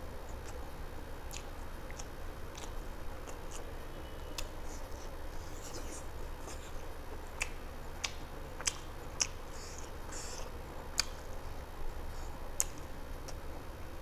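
Close-miked chewing of chicken curry and rice eaten by hand, with scattered sharp mouth clicks and smacks over a steady low hum.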